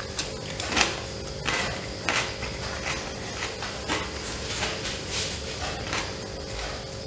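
A person chewing a mouthful of sandwich close to the microphone: irregular wet mouth clicks and soft crunches about once or twice a second, after a bite near the start.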